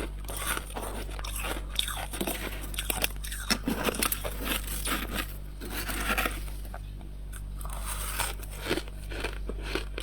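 Frost being bitten and chewed close to the microphone: a steady run of crunches.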